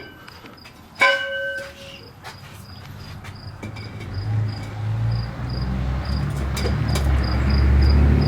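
Crickets chirping steadily. About a second in, a metal pipe piece clanks and rings briefly. From about halfway, a low rumble builds and is loudest near the end.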